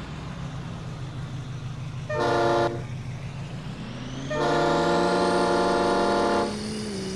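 Vehicle horn honked twice: a short toot about two seconds in, then a long blast of about two seconds, at someone driving badly. Under it a pickup engine hums and rises in pitch as it speeds up.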